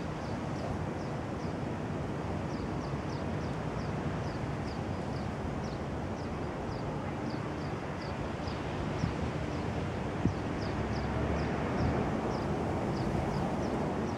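A small bird repeating short, high chip notes, about two or three a second, over a steady low rumble and hiss of outdoor background noise.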